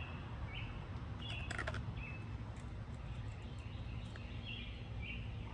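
Small birds chirping, short high chirps repeating about once or twice a second over a steady low background rumble, with a few sharp clicks about a second and a half in.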